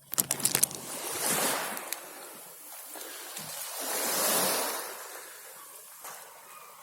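Sea waves washing in on the shore, the surf swelling twice, about a second and a half and about four seconds in, after a few sharp clicks at the very start.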